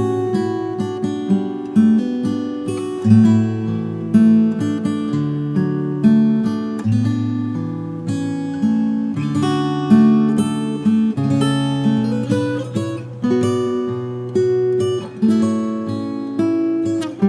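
Acoustic guitar music: a slow instrumental with picked and strummed notes over a moving bass line.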